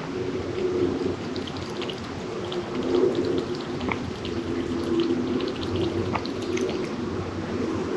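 Kittens eating wet food: a string of small, irregular wet smacking and lapping clicks over a steady low hum.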